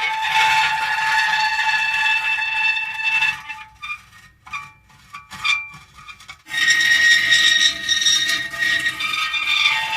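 Metal creaking: a long, high, steady squeal for about three seconds, a few short creaks and clicks in the middle, then another long squeal from about six and a half seconds in.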